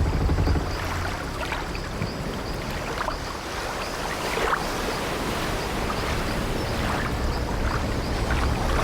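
Ambience of an old wooden ship at sea: waves washing with a low rumble, and several short creaks of the ship's wooden timbers scattered through it.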